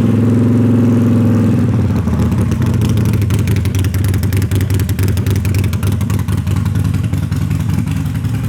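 Harley-Davidson Sportster 48's 1200 cc V-twin engine just after starting, running at a steady fast idle for about a second and a half, then settling into an uneven, loping idle. It is heard through aftermarket exhaust pipes that sound nothing like the stock 'sewing machine' exhaust.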